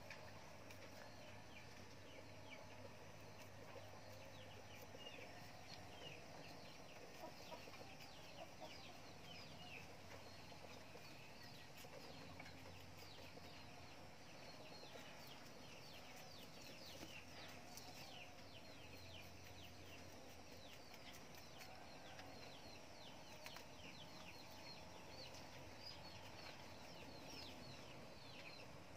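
Faint, continuous bird chirping: many short, high, falling chirps a second, with a low steady hum underneath.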